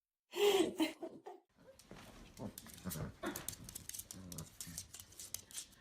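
A dog vocalising, with one louder call about half a second in, then short lower sounds over a run of quick clicks.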